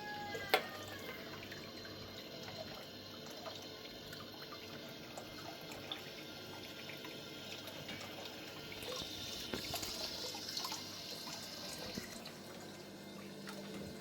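Water running and trickling, with one sharp click about half a second in.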